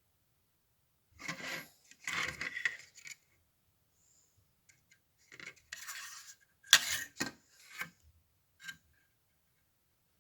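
Small hard objects being handled, with several short bouts of scraping and rubbing and a sharp clack about two-thirds of the way through.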